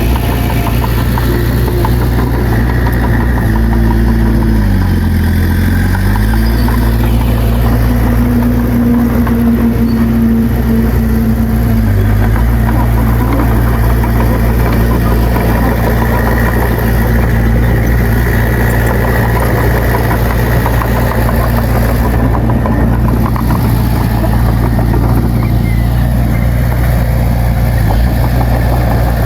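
Heavy earthmoving machine's diesel engine running steadily. A few seconds in, its speed sags and then comes back up, as under a brief load, with a shorter dip a few seconds later.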